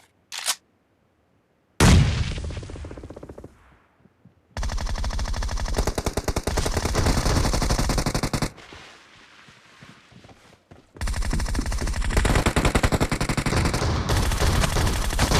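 Video game gunfire: a single loud bang about two seconds in that fades out over the next two seconds, then two long bursts of rapid automatic fire with a short quieter break between them.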